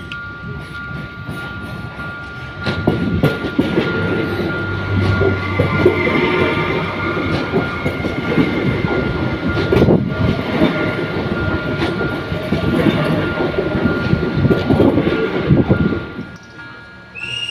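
Electric commuter train passing at close range. Its rumble swells about two and a half seconds in, the wheels clack over the points and rail joints as the cars go by, and the sound drops away sharply near the end.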